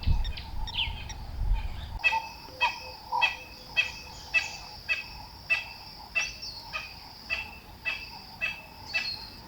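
A bird repeating the same short call over and over at an even pace, a little under two calls a second, starting about two seconds in. Low rumbling noise comes before it.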